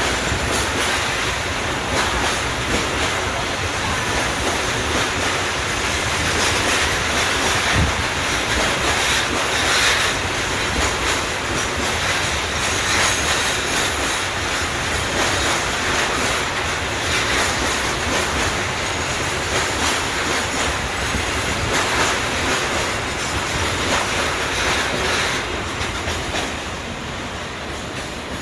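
Freight train wagons rolling past at speed, wheels clattering steadily over the rail joints. It eases slightly near the end.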